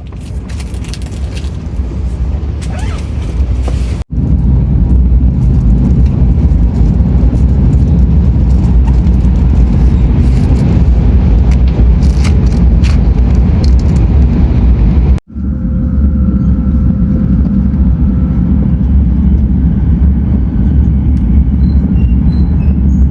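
A moving train's steady, loud low rumble, in three clips joined by sudden cuts about four seconds in and about fifteen seconds in.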